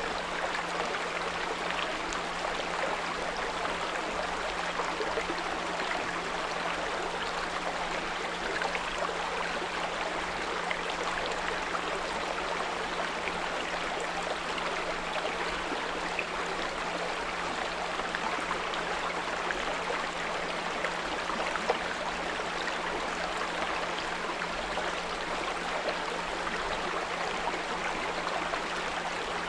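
Small brook running and trickling steadily, with a steady low 174 Hz pure tone under it. One brief tick sounds about two-thirds of the way through.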